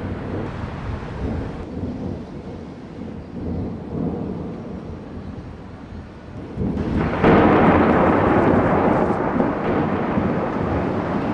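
Thunder in the opening storm of a typhoon, with rain: low rumbling at first, then a loud thunderclap about seven seconds in that rolls on and slowly fades.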